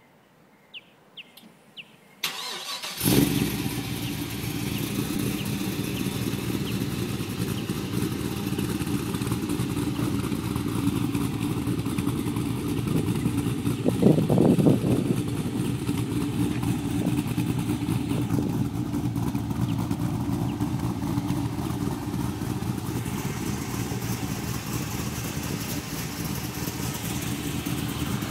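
Holden VY Commodore SS's LS1 V8 with a big lumpy cam and loud exhaust being started: a few faint clicks, cranking, then it catches about three seconds in with a flare of revs and settles into a lumpy idle. It is blipped once briefly around halfway, then idles on.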